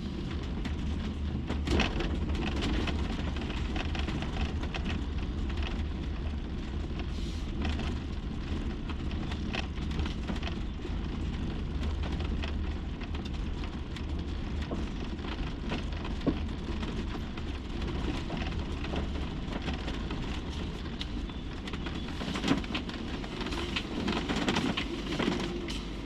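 Motorhome driving slowly, heard from inside the cab: a steady low engine and road rumble with scattered rattles and knocks.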